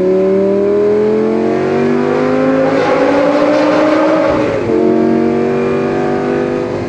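Lamborghini Gallardo's V10 engine accelerating hard through a tunnel. The revs climb for about four seconds, drop suddenly with an upshift, then the engine pulls on steadily in the next gear.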